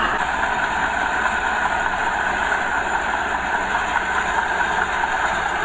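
Diesel engine of earthmoving machinery running steadily.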